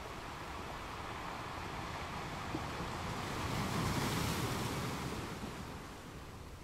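Steady tyre and road noise inside a car cruising at about 40 mph, with a whoosh that rises and falls as an oncoming minivan passes, loudest about four seconds in.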